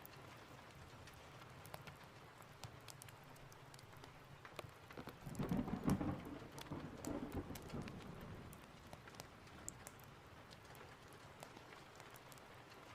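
Steady rain with scattered sharp ticks, and a roll of thunder about five seconds in that rumbles low for around three seconds before fading back into the rain.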